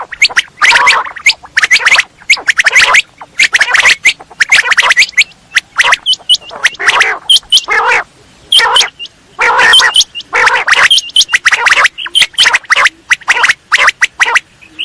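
Quail calling over and over in rapid, harsh, chattering notes packed closely together, with only brief pauses.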